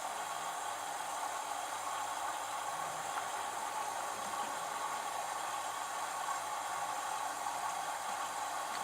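LG F1222TD direct-drive washing machine running steadily in the prewash part of its babycare cycle: a continuous even whir and hiss with a faint low hum.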